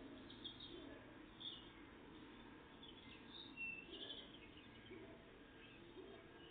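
Faint songbird calls and song, with short high chirps scattered through and a cluster of them about three and a half to four seconds in, over a low steady background noise.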